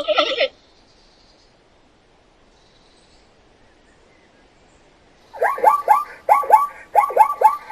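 A bird calling. About five seconds in, after a quiet pause, it starts a rapid series of rising chirps, clustered in twos and threes and repeating about twice a second.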